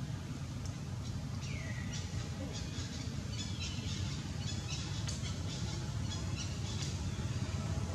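Birds chirping in short, quick series, with one brief falling call about a second and a half in, over a steady low outdoor rumble.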